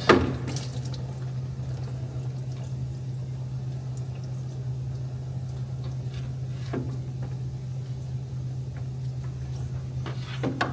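Transmission fluid from a Ford 6R80 six-speed automatic draining out past the loosened pan into a catch pan, in a steady trickle over a steady low hum. A sharp knock right at the start, and fainter knocks a little past the middle and near the end.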